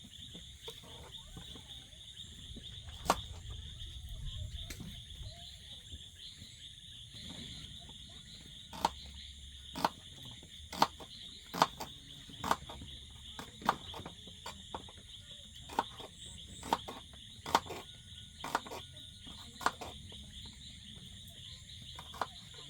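Steady high insect chorus, with a run of sharp knocks at about one a second through the middle, the knocks being the loudest sounds.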